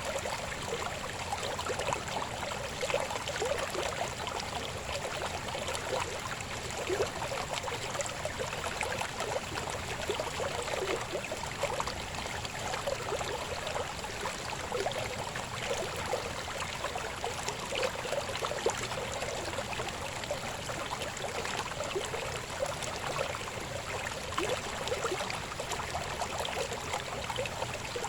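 Shallow river babbling and gurgling over stones: a steady wash of running water with many small splashes.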